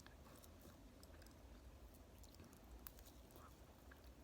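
Faint chewing of instant noodles, with a few soft mouth clicks.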